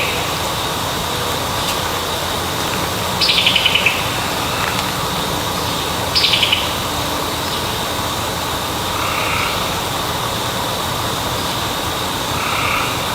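A bird calling: a short, fast trill that falls in pitch, given twice about three seconds apart, over a steady hiss with a thin high tone. Fainter, softer calls follow near the end.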